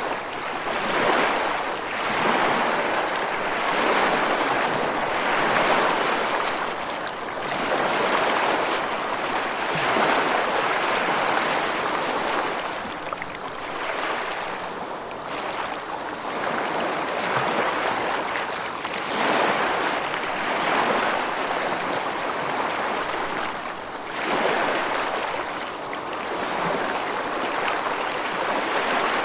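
Continuous rushing water, swelling and easing every couple of seconds.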